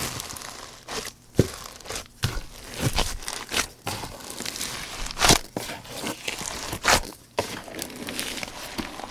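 Slime being kneaded and stretched by hand: a sticky, crinkly crackle broken by irregular sharp pops and snaps as the slime is pressed and pulled apart.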